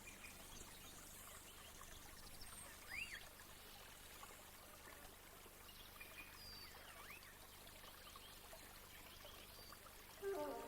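Faint trickling water, with a few short chirping bird calls. Music comes in just before the end.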